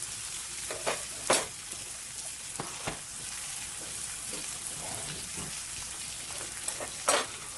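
Beef rib-finger meat (galbisal) sizzling steadily on a grill, with a few sharp clicks and taps, two of them louder, about a second in and near the end.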